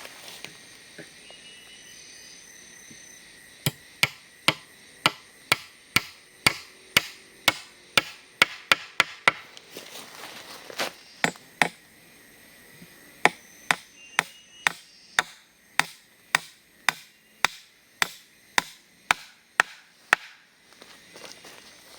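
A long run of sharp blows of a tool on wood, about two a second, with a brief break about halfway through.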